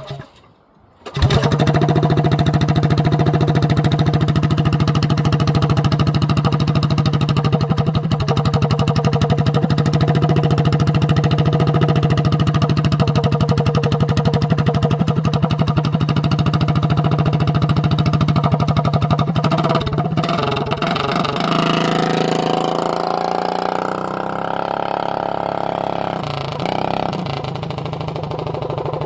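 Coleman B200R minibike's small single-cylinder engine running hard at steady high revs, a loud even note. After about twenty seconds the pitch wanders and the sound grows somewhat fainter.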